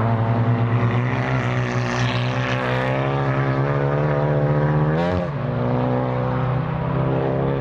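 Time-attack race car engine pulling hard on track, its note climbing slowly. About five seconds in the pitch briefly jumps and then drops, and the engine runs on steadily at a lower note.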